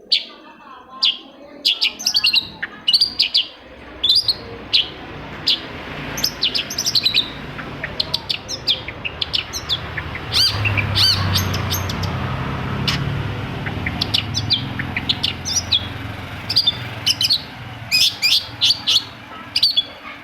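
Long-tailed shrike giving a rapid series of short, sharp chirping calls. These are its 'toetan' calls, used as a lure to set silent caged shrikes singing. A low rumble sits beneath them and grows louder midway.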